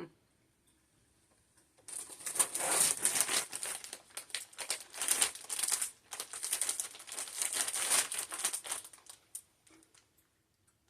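Small plastic candy bag crinkling as it is handled and opened. It starts about two seconds in and stops near the end.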